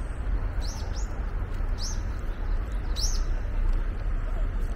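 Small birds calling in the trees: short, high arched chirps, some in quick pairs, about one a second, over a steady low rumble.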